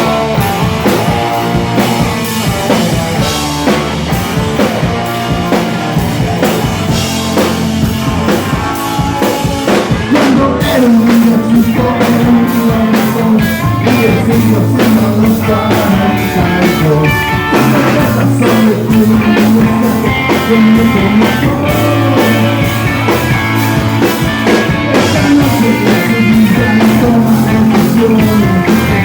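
Rock band playing live: electric guitar, bass and drum kit, with the band coming in fuller and a little louder about ten seconds in.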